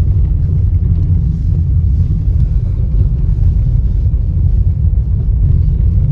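Vehicle driving, with a steady low road rumble.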